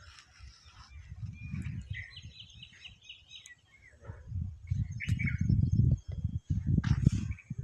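Birds chirping outdoors, with a quick run of short notes about two seconds in. A low, uneven rumbling noise comes in twice and is loudest in the second half.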